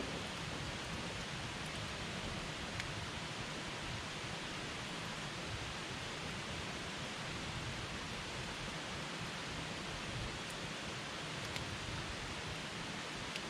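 Campfire burning with a steady rushing hiss and a few faint pops from the wood.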